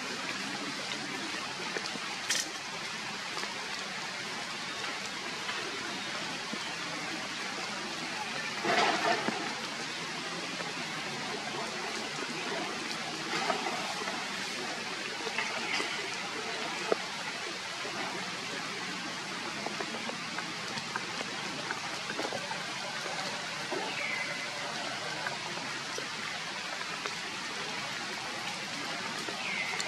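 Steady rain falling, a continuous even hiss, with a louder patch about nine seconds in and a few brief high chirps scattered through.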